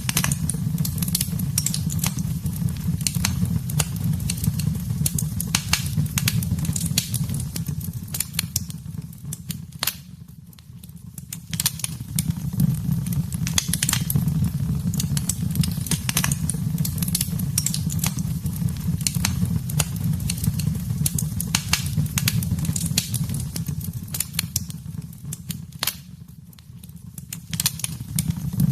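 Wood fire in a fireplace crackling, with dense sharp pops and snaps over a steady low rumble of flames. It dips quieter briefly about ten seconds in and again near the end.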